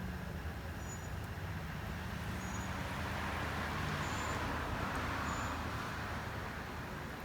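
A motor vehicle running with a steady low hum, and a rush of road noise that swells and fades about halfway through.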